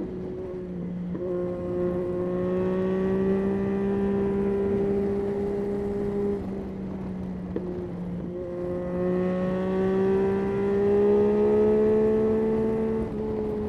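Yamaha Tracer 9's 890 cc three-cylinder engine under way, its pitch climbing slowly as the revs build. Around six seconds in the engine note dips and eases off, then it climbs again and drops once more near the end.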